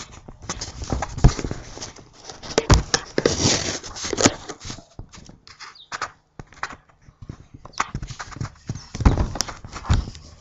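Hands handling parts and tools: irregular knocks, clicks and rustling, with the loudest knocks a little over a second in, near the middle, and about nine seconds in.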